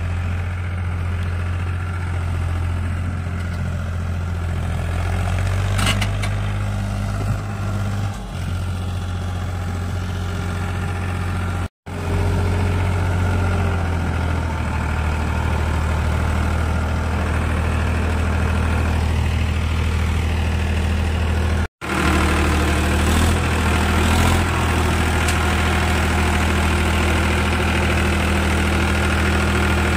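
Diesel tractor engines idling steadily with a low hum. The sound cuts out for an instant twice.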